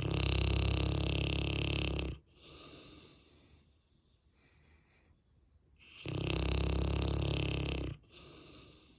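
Saint Bernard snoring in a deep sleep: two long, loud snores about six seconds apart, each lasting about two seconds, with a softer breath after each.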